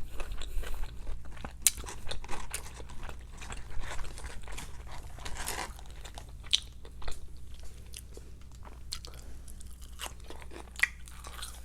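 Close-up eating sounds of fast food: a person chewing and crunching with their mouth, making irregular crisp clicks and smacks.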